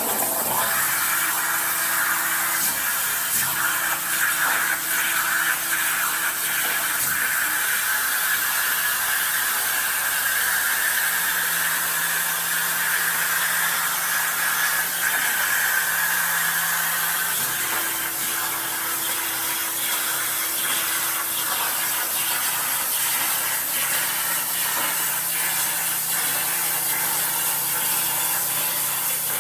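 CNC plasma torch cutting stainless steel sheet: a loud, steady hiss of the arc and air jet over a low machine hum, which changes note a little past halfway.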